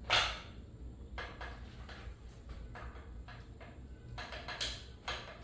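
Scattered light clicks and knocks of metal parts and tools being handled during engine assembly, a louder one right at the start, over a low steady hum.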